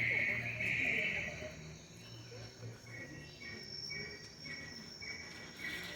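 Cricket-like insect chirring: a steady high trill in the first second, then short high chirps repeating evenly about twice a second from about three seconds in.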